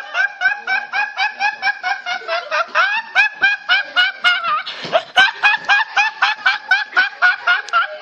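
High-pitched, cartoonish laughing meme sound effect: a rapid string of short, squeaky laugh syllables, about four a second.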